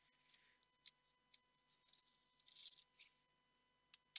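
Tape being peeled off a bagged canvas roll: faint crinkling and rustling in two short spells, with a few light clicks.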